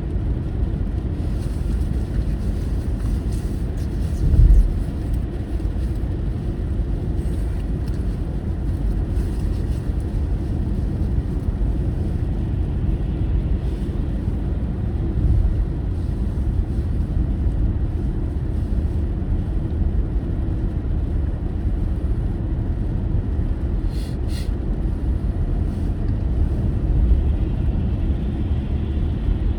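A car driving, heard as a steady low rumble of road and engine noise, with a single louder low thump about four seconds in and a couple of short clicks later on.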